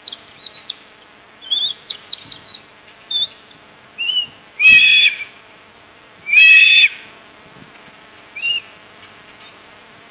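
Birds calling: a scatter of short high chirps, then two louder, longer calls about a second and a half apart in the middle, over a steady low buzzing hum.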